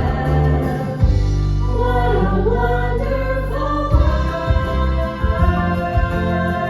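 Music with a singer. About a second in the beat drops out under a long held chord while the voice wavers and slides, and a steady bass beat comes back about four seconds in.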